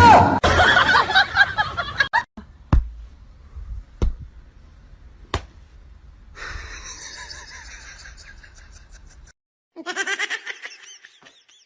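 People laughing, broken by a few single sharp knocks or smacks in the middle.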